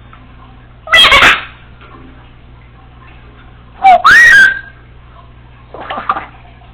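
Congo African grey parrot calling: a loud short call about a second in, then a louder call with a whistled note that slides up and holds about four seconds in, and a quieter call near the end.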